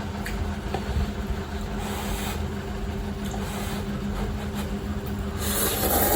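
A person eating cup instant fried noodles: small clicks of eating, with a louder noisy rush near the end, over a steady low hum.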